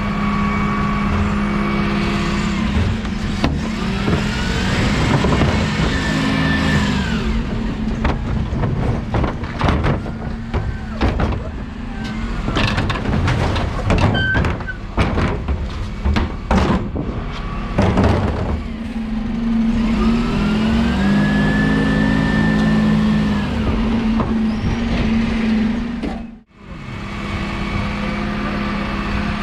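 Dennis Elite 6 refuse truck's diesel engine heard from the cab, rising in steps twice as the truck pulls away and changes gear, each time with a rising whine. Through the middle the cab rattles with a string of sharp knocks and clatters.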